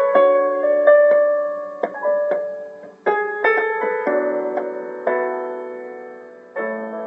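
Piano playing an instrumental passage of a song: chords and single notes struck one after another, each ringing on and fading before the next.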